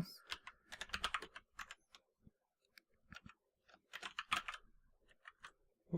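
Typing on a computer keyboard: quick runs of key clicks, with a pause of about a second in the middle.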